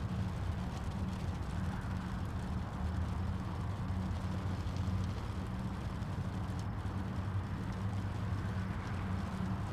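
A steady low rumble with a soft hiss above it, unchanging throughout.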